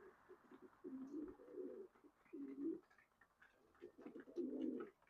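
Racing pigeons cooing softly: three low, warbling coos, about a second in, around two and a half seconds in, and near the end.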